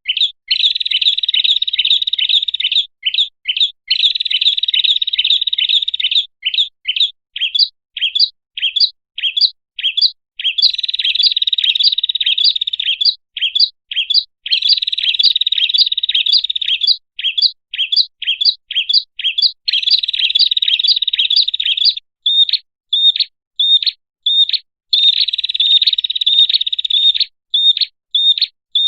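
Prenjak (prinia) song played as a bird-lure call: high, fast trills, with long unbroken stretches alternating with runs of separate quick chirps.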